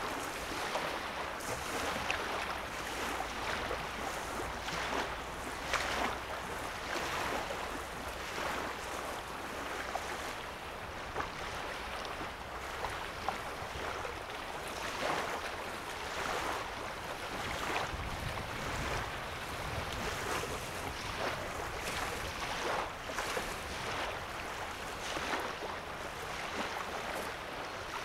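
Small waves lapping on the sandy shore of a calm lake: a steady wash of water broken by frequent little splashes.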